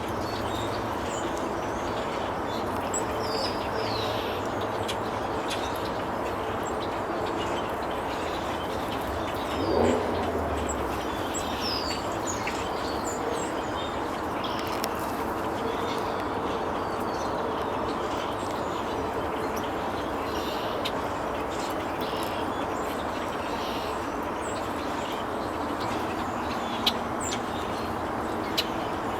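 Small birds chirping now and then over a steady background rush, with one louder, lower call about ten seconds in and a couple of sharp clicks near the end.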